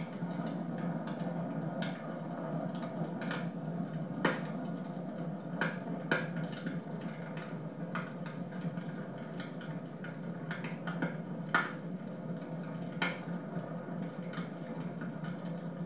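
Wood fire in a home fireplace crackling, with sharp irregular pops and snaps over a steady low rush.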